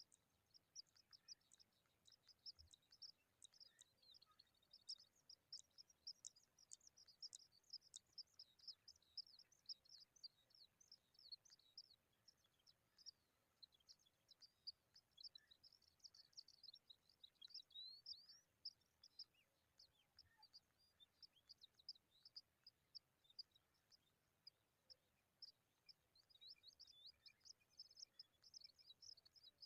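Faint, rapid, high-pitched chirping from small birds: a dense stream of short chirps, some gliding in pitch.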